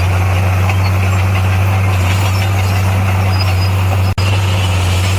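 Heavy diesel earthmoving machine engine running steadily with a low, even drone. It cuts out for an instant about four seconds in.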